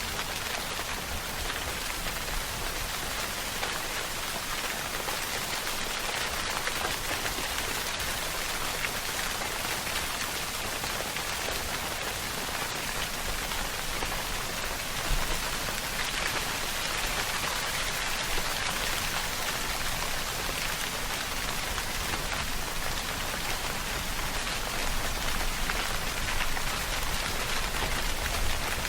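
Steady rainfall: a continuous hiss of many drops pattering on a surface, with one brief louder spatter about halfway through.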